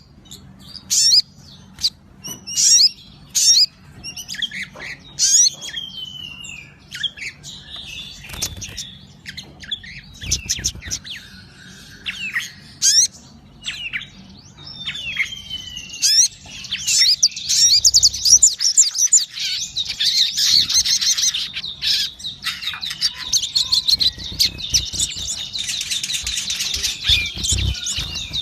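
A sogon songbird singing vigorously: scattered sharp chirps and sliding whistles at first, building about halfway through into dense, rapid, nearly continuous chattering song.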